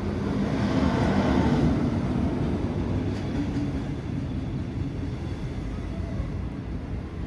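A train running through a station, loudest about one to two seconds in, then a steady running noise of wheels on rails.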